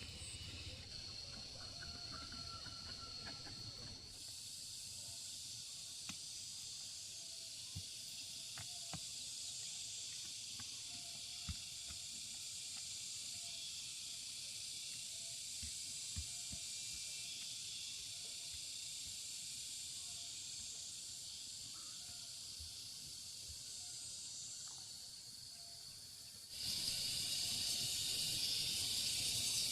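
Steady high-pitched hiss with a few faint clicks and taps; it jumps suddenly louder near the end.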